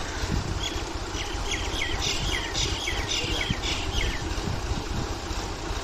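Tractor engine running steadily under the load of a tubewell pump that is driven off its tire. A bird chirps over it: a quick run of short, falling notes from about half a second to four seconds in.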